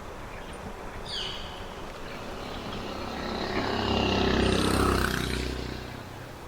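A motor vehicle passing by: its engine hum builds, peaks about four and a half seconds in, then fades away.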